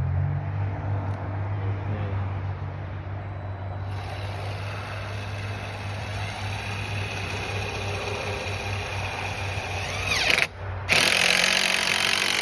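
Power drill driving screws into wood: the motor runs, speeds up near the end, stops for a moment, then runs loud again for about two seconds.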